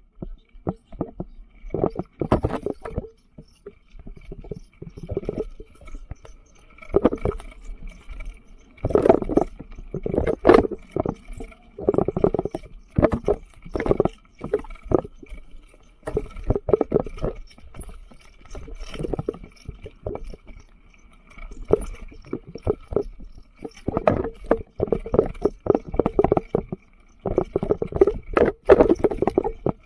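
Mountain bike rattling and clattering over a rough, rocky trail: an irregular run of knocks and jolts from the tyres, frame and chain, heavier in bursts with brief smoother stretches.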